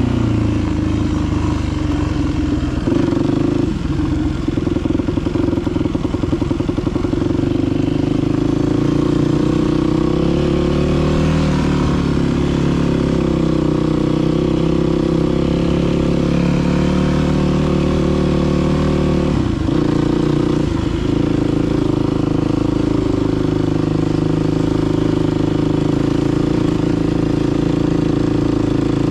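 Dirt bike engine running under way, its pitch rising and falling with the throttle, with a couple of brief drops around twenty seconds in as the throttle is let off or a gear is changed.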